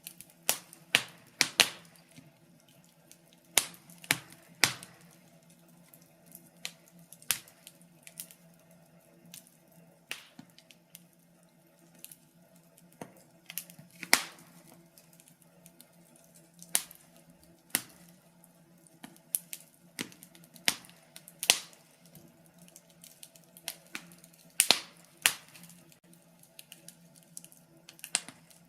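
Wood fire crackling: sharp pops and snaps at irregular intervals, some in quick clusters, over a faint steady low hum.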